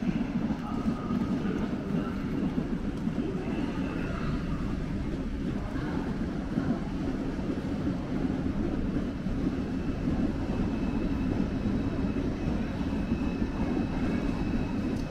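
Train moving along the platform tracks with a steady low rumble. A faint, steady high whine joins about two-thirds of the way through.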